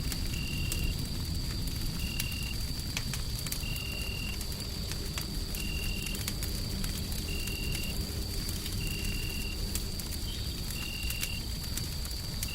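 Mixed ambience of a wood fire crackling in scattered small clicks over a steady low white-noise rumble. A thin high tone holds steady throughout, and a short higher beep-like tone repeats about every second and a half.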